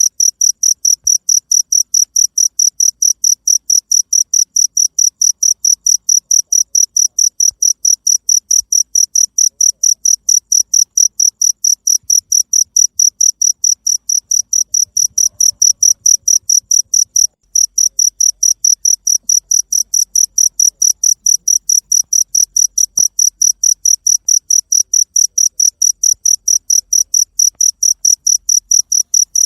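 Cricket chirping: a steady, evenly spaced train of high chirps that breaks off for a moment a little past halfway, then carries on.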